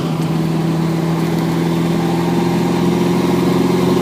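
Honda Gold Wing motorcycle engine running at a steady cruise, an even engine hum with rushing noise behind it.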